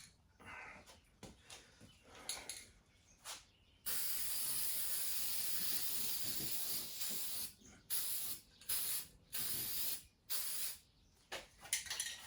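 Aerosol spray-paint can hissing as paint is sprayed in short bursts, then one continuous pass of about three and a half seconds, then several more short bursts.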